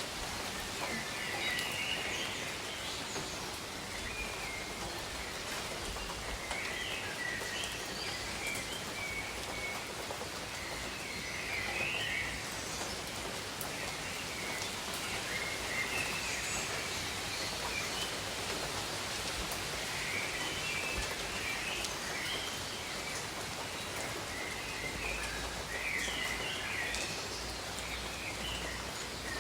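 Steady rain falling over tropical jungle, with birds chirping in short runs every few seconds.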